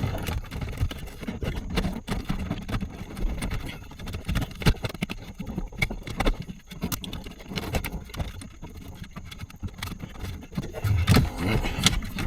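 Plastic center-console trim being worked loose and handled: irregular clicks, knocks and rattles of clips and panels.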